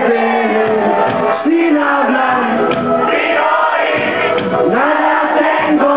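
Live reggae band playing, with voices singing long held notes over the music.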